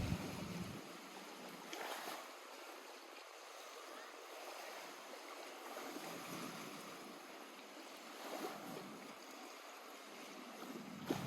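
Lake water lapping softly at the shore: a faint, steady wash with a few small swells as wavelets break.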